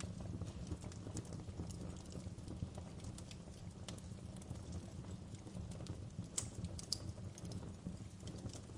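Wood fire crackling in a fireplace: a steady low rumble from the flames with scattered sharp pops and snaps, the two loudest about six and a half and seven seconds in.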